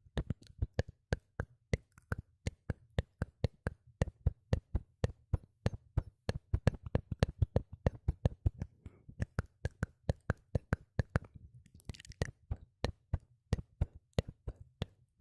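Close-miked ASMR mouth sounds: quick wet clicks and pops from tongue and lips, several a second, with a short breathy hiss about twelve seconds in.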